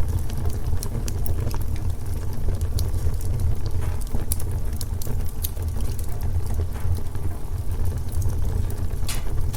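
Wood fire burning in a fireplace: a steady low rumble with scattered sharp crackles and pops, one louder pop about nine seconds in.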